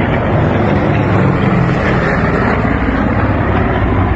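Aircraft engines droning loudly and steadily.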